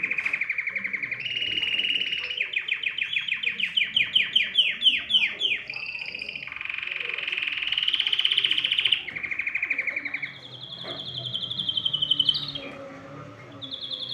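Domestic canary singing a continuous song of rapid trills, phrase after phrase, with a run of fast descending sweeps in the middle and higher rolling trills near the end.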